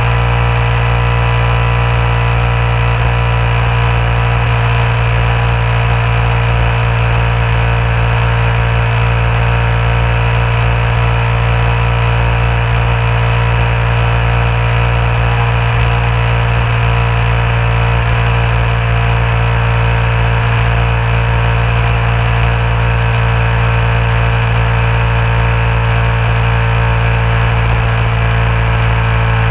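Motorcycle engine running at a steady cruising speed: a constant drone with a strong low hum, its pitch unchanged throughout.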